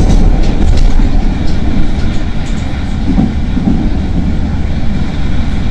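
CTA Red Line train running along the track, heard from inside the car: a steady rumble of wheels on rail, with a quick run of clacks from the wheels over the track in the first couple of seconds.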